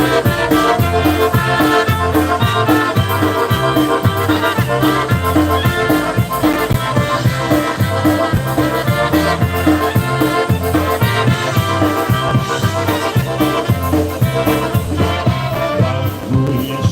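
Live polka band playing an instrumental introduction over a steady, even bass beat, just before the vocals come in.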